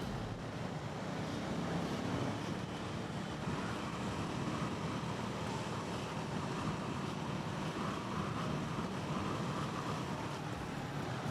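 Steady city traffic noise heard from a motorcycle in slow, congested traffic: a continuous wash of engines and road noise with wind rushing on the helmet-mounted action camera's microphone.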